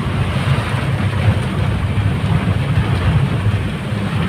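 Strong wind and heavy rain: a steady, loud noise with a low, fluctuating rumble underneath.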